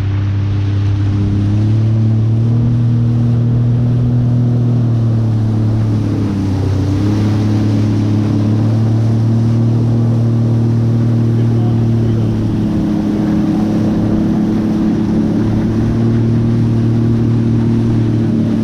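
Jet ski engine running at a steady cruising throttle with water rushing under the hull. Its pitch dips briefly about six seconds in and shifts slightly again near twelve seconds as the throttle is eased and picked up.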